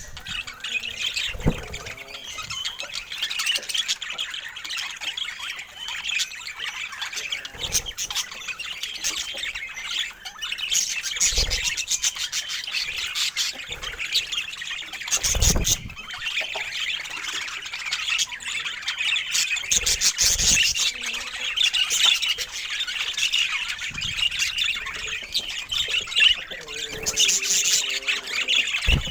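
Pet budgerigars chattering and chirping continuously in a warbling stream, with occasional squawks. A few dull thumps sound now and then.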